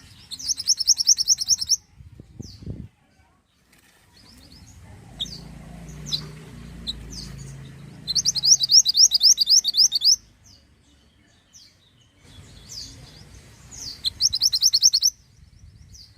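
Mantenan songbird singing: three fast trills of sharp, high repeated notes, each about a second and a half long, coming near the start, about eight seconds in and near the end, with single high chirps scattered between them.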